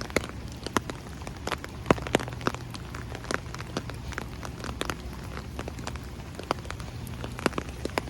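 Rain falling, with single drops striking close by in irregular sharp ticks over a low steady rumble.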